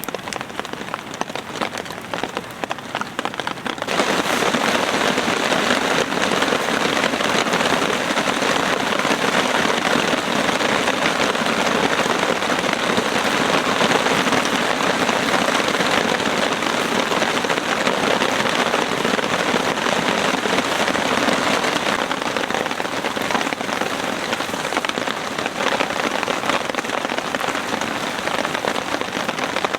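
Steady rain falling, becoming suddenly louder and heavier about four seconds in, then holding steady.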